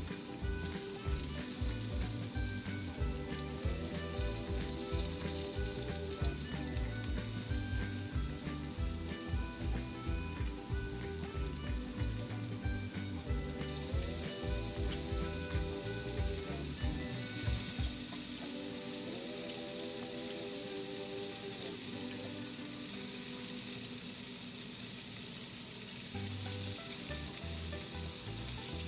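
Chicken frying in hot oil: a steady sizzle that gets louder partway through. Background music plays under it, and its bass beat drops out about two-thirds of the way in.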